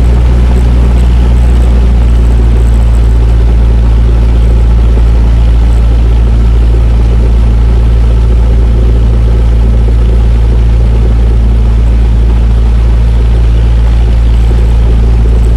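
Cessna 172S's four-cylinder Lycoming IO-360 engine running steadily and loudly just after a hard start.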